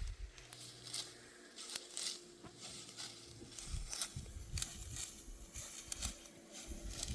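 Dry wheat stalks crackling and rustling in irregular bursts, as when ripe wheat is cut or gathered by hand, with a few low thumps.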